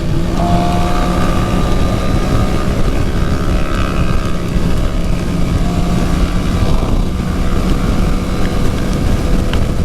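Suzuki GSX-R750's inline-four engine running at steady cruising revs, with heavy wind rush on the microphone.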